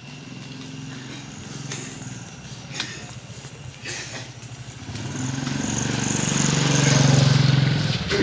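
A motor vehicle's engine running steadily, growing louder over the last few seconds and dropping away near the end as it passes close by.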